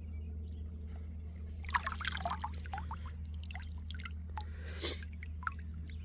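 Creek water splashing and dripping, with a cluster of small splashes and gurgles about two seconds in and another near five seconds, over a steady low rumble.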